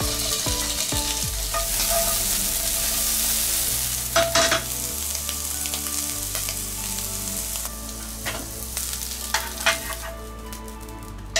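Peeled prawns sizzling in hot oil in a nonstick frying pan, the sizzle strongest in the first few seconds and easing off as they cook. A few sharp metal clicks of tongs against the pan about four seconds in and near the end.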